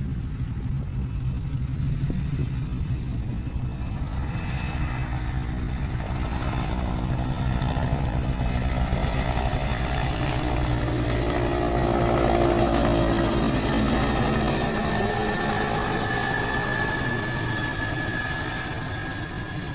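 Helicopter flying low overhead: a steady rotor and engine rumble that grows louder to a peak about two-thirds of the way through, then eases off as it passes.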